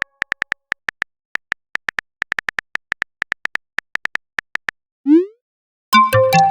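Phone keyboard typing sound effect: quick, irregular clicks for nearly five seconds, then a short rising pop as a message is sent, and a multi-note notification chime near the end.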